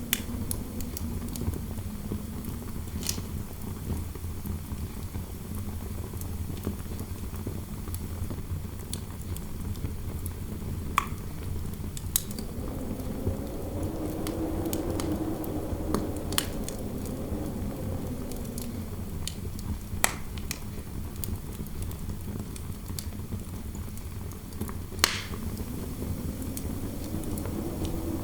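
Fireplace crackling with scattered sharp pops over a low rumble, and wind howling through a room: a hollow moaning tone that swells and fades, rising and falling about halfway through and again near the end.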